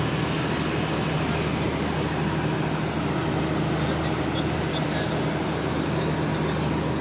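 Diesel generator running at a steady speed, a constant engine hum with a low drone.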